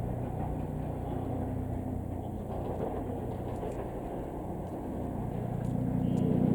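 Electric train running, a steady low rumble with a hum, growing louder near the end as it draws closer.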